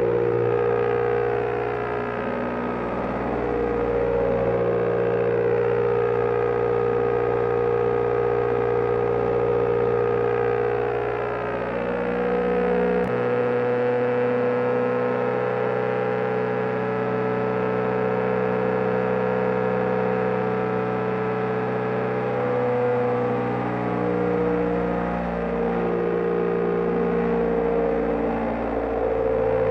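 BMW GS Adventure motorcycle engine running steadily at highway cruising speed, heard from on board, with a change in its low tone about halfway through and slow rising and falling tones from passing traffic.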